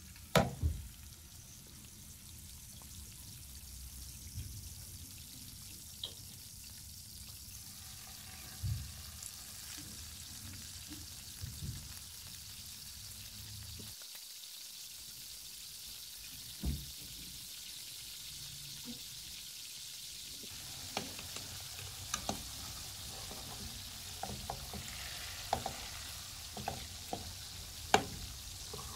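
Stuffed chicken breasts frying in oil in a nonstick pan: a sizzle that builds over the second half, with small clicks of forks tapping and scraping the pan as the pieces are turned. A sharp knock right at the start.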